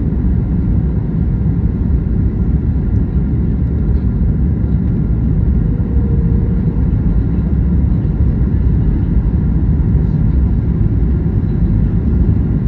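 Steady rumble of engines and airflow heard inside the cabin of a Boeing 737 MAX 9 airliner, with its CFM LEAP-1B engines, during its arrival. The noise holds an even level with no touchdown thump, and a faint tone sounds briefly about six seconds in.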